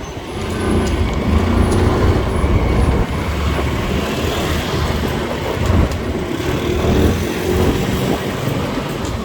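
Motorcycle engine running on the road, with road and traffic noise as a continuous low rumble; the engine note swells a few times.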